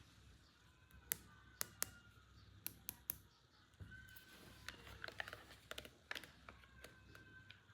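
Faint, scattered clicks and taps of small plastic toy pieces being handled, a few each second at irregular spacing.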